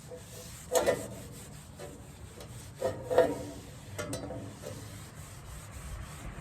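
Rag rubbing used engine oil into a wooden shovel handle, a steady scratchy rubbing broken by a few sharper knocks about a second in and again around three and four seconds in.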